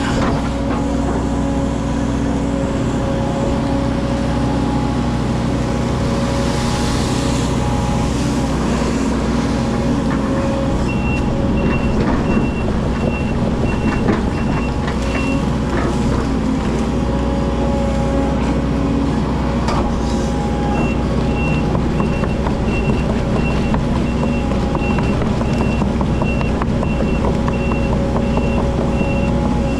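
Hydraulic excavator working, its diesel engine running steadily under scattered metallic clanks. Its travel alarm beeps about twice a second in two spells, one mid-way through and one from about two-thirds of the way in.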